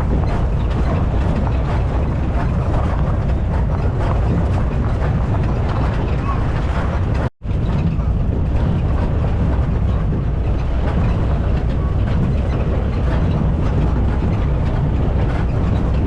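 Steady vehicle running noise with a deep rumble, typical of riding in a safari jeep on a rough track, with wind on the microphone. It cuts out for an instant about halfway through.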